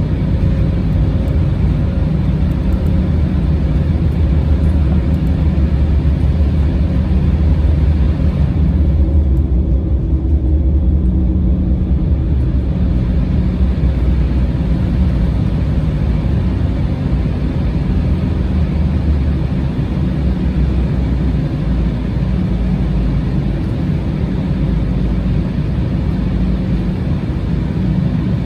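Steady cabin noise of an Embraer regional jet in flight: a low drone from the turbofan engines and airflow, with a steady hum. The higher hiss eases briefly about a third of the way in.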